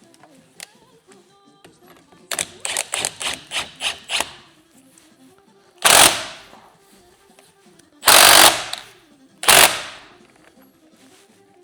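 Workshop tool noise on metal: a quick run of about eight knocks, then three separate louder, harsher bursts, each fading off.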